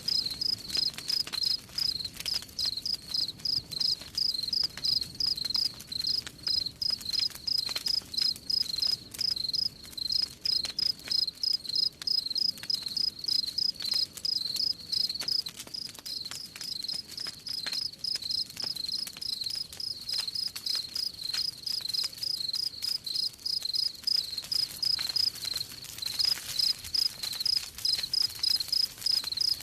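Crickets chirping in a steady, even rhythm of about three chirps a second, with faint crackling of a wood campfire underneath. The chirping drops back for a while in the middle and comes in strongly again near the end.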